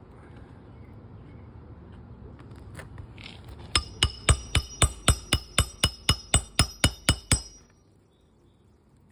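Hammer striking metal on a shingle roof repair: a quick, even run of about fourteen blows, roughly four a second, each with a bright metallic ring, stopping suddenly near the end.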